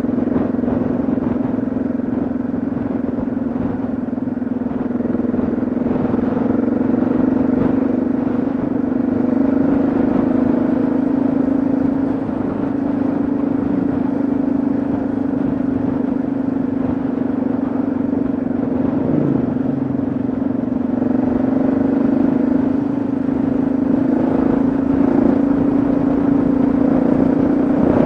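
Yamaha XT660Z Ténéré's single-cylinder engine running at a steady cruise on the road.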